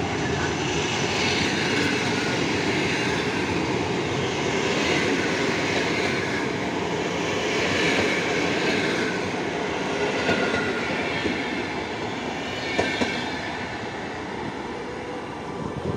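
Intercity passenger train hauled by an EP07 electric locomotive rolling past, the carriages' wheels clattering on the rails in repeated swells. It grows quieter over the last few seconds, with a few sharp clicks near the end.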